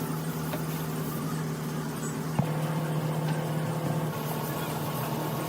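Truck engine idling steadily, with a single sharp knock about two and a half seconds in.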